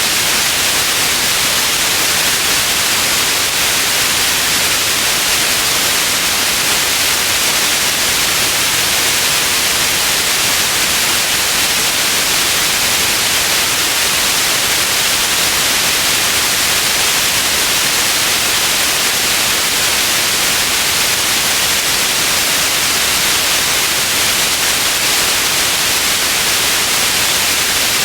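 Steady white noise: an even, unchanging hiss with most of its energy high up and no breaks or events.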